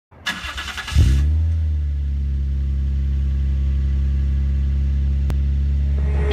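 Toyota Cresta's engine starting through a large single-tip exhaust. The starter cranks for under a second, the engine catches about a second in with a brief rev that falls away, then settles into a steady low idle.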